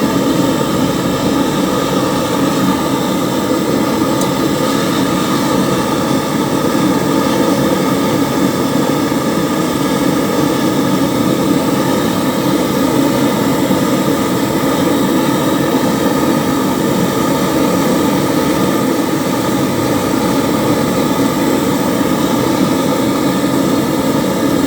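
Gas brazing torch flame burning with a loud, steady rush while joining a refrigerator's copper pipe.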